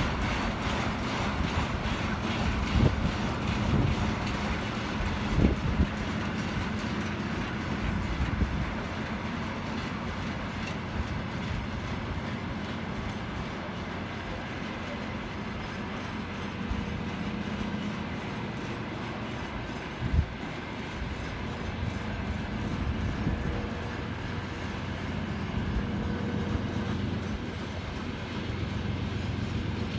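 Freight train wagons rolling past, their wheels clattering over the rail joints under a steady rumble, with a few sharp knocks along the way.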